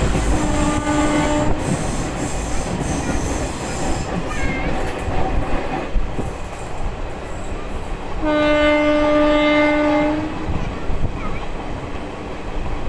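A moving train's steady running rumble and wheel clatter on the track. A train horn sounds twice, a short blast near the start and a louder blast of about two seconds past the middle.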